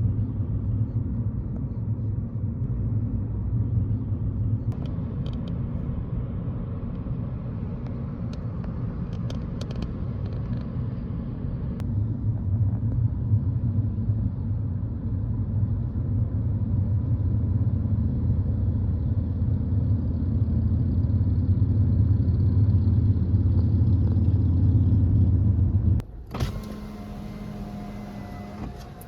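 Steady low rumble of a moving road vehicle travelling. About 26 seconds in it cuts off abruptly, leaving a quieter, fainter hum.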